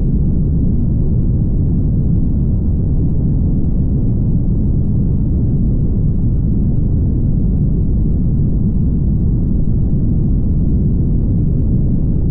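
Steady low road rumble of a car travelling at highway speed: tyre and engine noise with no breaks or changes.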